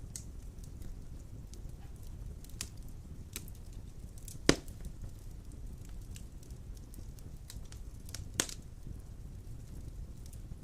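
Wood fire burning in a stone fireplace: a steady low rumble of flames with scattered crackles and two sharp pops, the louder one about halfway through and another near the end.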